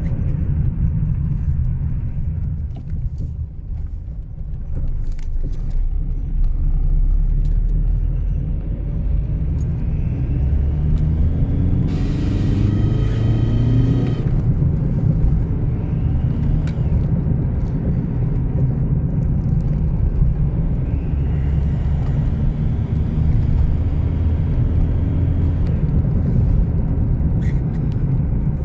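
Skoda Superb's 1.9 TDI four-cylinder turbodiesel (ASZ) running with a steady low rumble, rising in pitch once near the middle as it revs, with faint high rising whistles that come and go. The engine has an intake air leak (code P2279) that sends it into limp mode and gives a chirping sound.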